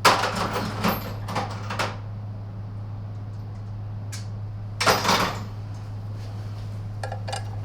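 Clatter and knocks of tools and small parts being handled at a workbench: a run of rattles in the first two seconds and another burst about five seconds in, over a steady low hum.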